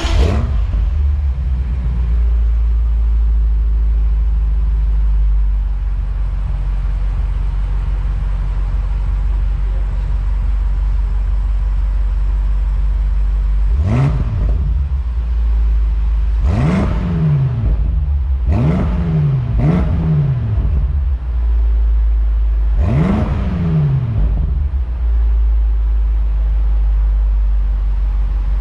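BMW F90 M5's 4.4-litre twin-turbo V8 through its factory exhaust: it fires up with a sudden loud flare, settles into a steady idle, then is revved in about five sharp throttle blips in the second half, each rising and falling quickly.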